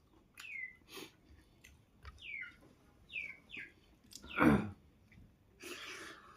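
Eating sounds from a mukbang: chewing and mouth clicks, with one loud sudden mouth sound about four and a half seconds in and a short hiss near the end. A bird chirps in the background, each chirp short and falling in pitch, five or so times.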